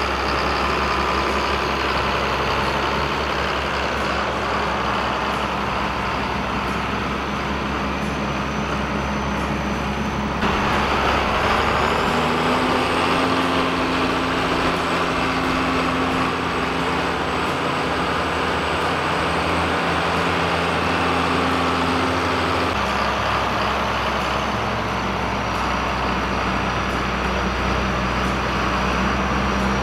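Farm tractor engine running steadily while the tractor is driven. Its engine speed rises a little after ten seconds in and drops back about two-thirds of the way through, with a faint high whine that rises and falls along with it.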